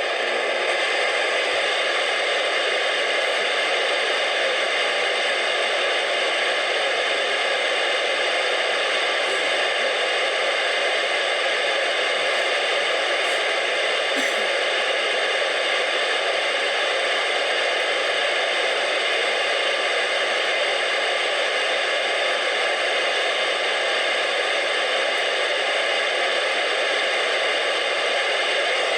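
Steady radio static: an even hiss with faint steady tones running through it, and no voice coming through.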